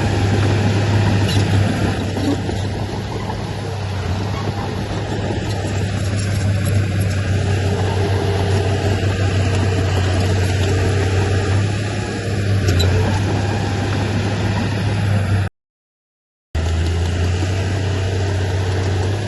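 Heavy diesel earthmoving machinery running steadily, a deep engine drone with the rumble and clatter of work. The sound cuts out for about a second near the end, then carries on the same.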